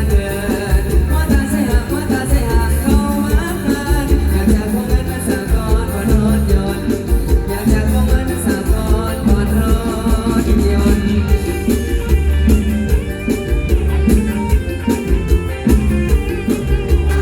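Mor lam band music with a singer over a heavy, regular bass-drum beat.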